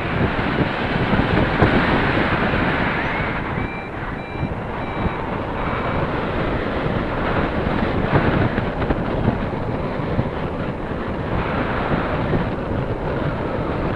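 Wind buffeting the microphone: a steady, loud, rumbling noise that rises and falls unevenly. About four seconds in, a few faint short high beeps sound briefly.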